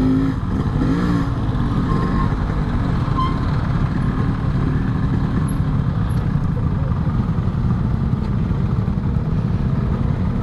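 Yamaha RX-King's two-stroke single-cylinder engine running steadily under a rider on the road.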